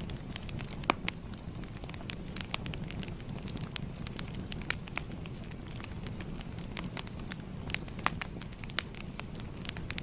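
Fire crackling: a steady low rumble of burning with many irregular sharp pops, the loudest about a second in.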